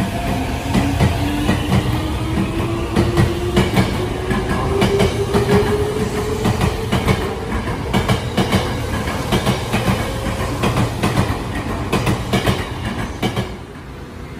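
Tokyo Metro 05 series electric train moving past the platform, its traction-motor whine rising steadily in pitch as it gathers speed, over the clatter of wheels on the rails. The sound drops away sharply near the end.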